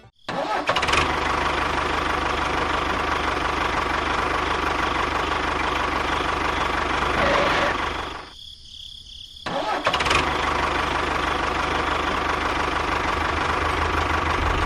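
A small engine or motor running steadily. It drops out for about a second just past the middle, then runs on as before.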